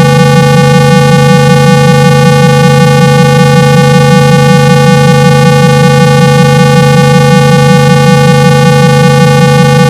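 Steady, very loud 165 Hz low test tone, the kind played to shake water out of a phone's speaker. It has a fast, even flutter and a ladder of buzzy overtones.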